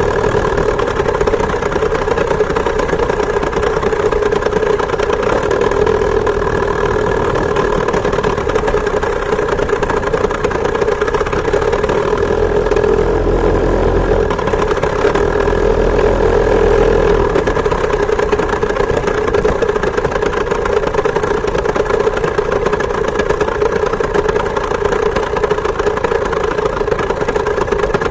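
Chainsaw-engine moped's small two-stroke engine running steadily at an even pitch, with a low rumble that swells for a few seconds around the middle.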